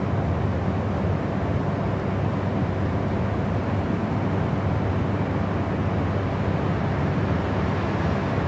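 Steady white noise for sleep, unchanging and heaviest in the low range, with a deep hum under a softer hiss.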